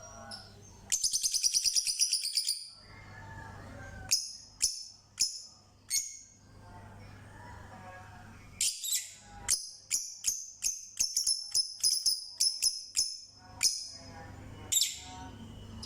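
Small birds calling: a fast high trill about a second in, then a few sharp separate chirps, then a long quick run of chirps in the second half.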